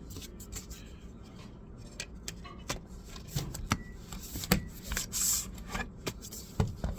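Laptop parts being handled: scattered small clicks and taps, a brief rubbing scrape a little past halfway, and a couple of heavier knocks near the end.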